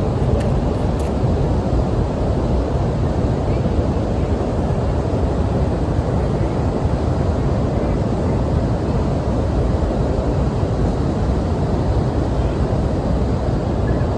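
Steady low rushing noise, heaviest in the low end, with no distinct events.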